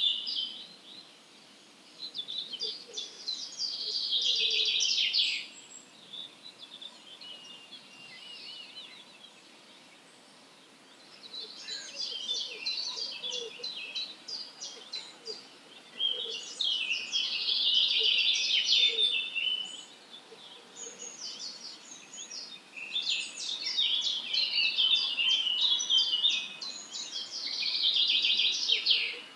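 Wild songbirds singing in bursts of rapid, high chirps and trills, each lasting a few seconds, with short pauses between.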